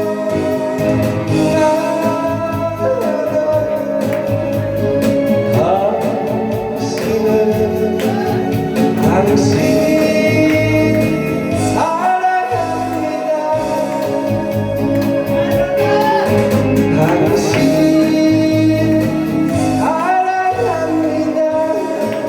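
A song sung with held, sliding notes over an instrumental backing track with a steady beat.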